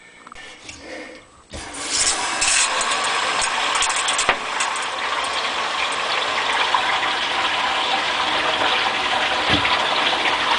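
Water rushing through the supply line into the water heater tank, refilling it after the drain valve replacement. A steady hiss that starts suddenly about one and a half seconds in.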